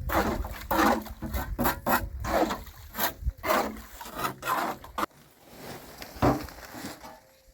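Rhythmic rasping strokes, about two a second, that stop about five seconds in, with one more stroke a little later.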